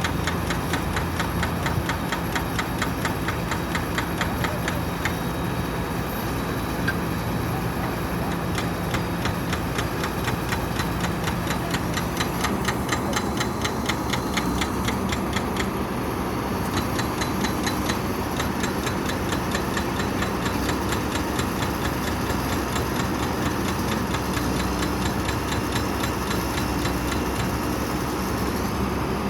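Heavy diesel engine of a Sumitomo piling rig running steadily, with a fast, even ticking clatter over its low hum.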